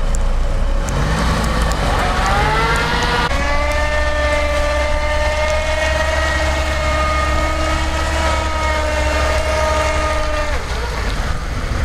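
Lada Niva's engine revving hard as it tries to climb out of a rut in slippery salt-marsh mud with its wheels spinning. The revs rise over the first few seconds, are held high and steady, then drop off shortly before the end.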